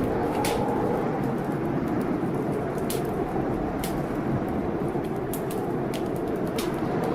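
Blizzard wind blowing against a window, a steady rush with a faint wavering howl, under a wood fire in a fireplace crackling with sharp, scattered pops about once a second.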